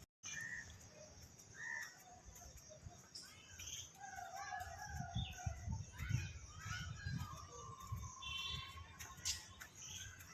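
Assorted birds calling and chirping, a mix of short chirps and a longer held call near the end, over low rumbling in the middle.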